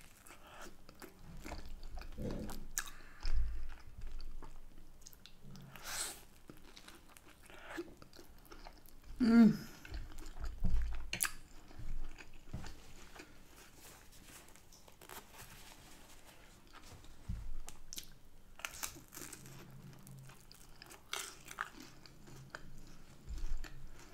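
Close-miked eating: biting and chewing a hand-held piece of Yorkshire pudding wrapped round a sausage, with scattered wet mouth clicks and soft thumps. About nine seconds in there is a short pitched sound that dips and rises, like an 'mm'.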